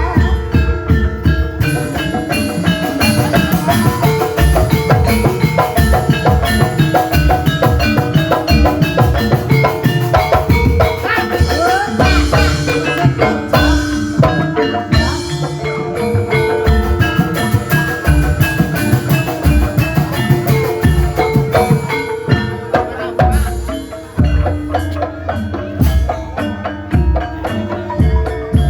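Gamelan-style ensemble music for an ebeg horse dance: tuned mallet percussion and drums playing together in a dense, continuous rhythm.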